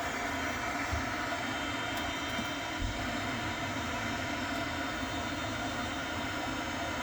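Worcester-Bosch gas boiler running with a steady rushing hum, its circulating pump working again after an intermittent H09 pump-communication fault.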